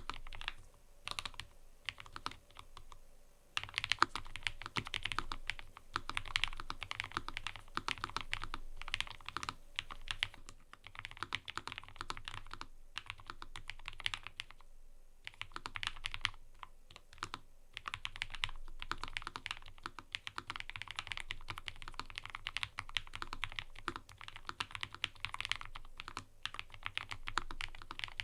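Fast typing on a mechanical keyboard: dense runs of key clacks broken by brief pauses, the longest near the start.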